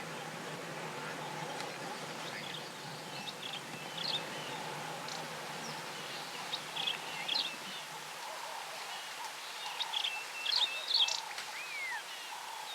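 Wild birds calling with short high chirps and whistles over a steady outdoor background hum, busiest in the middle and again a couple of seconds before the end.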